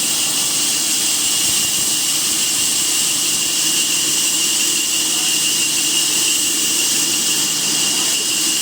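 A machine running steadily, a continuous hissing noise with a high whine held at one pitch.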